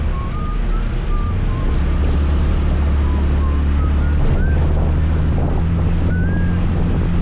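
Scooter engine running steadily under way, with a low, even drone, road and wind noise on the microphone. A thin, wavering whistle-like tone comes and goes over it several times.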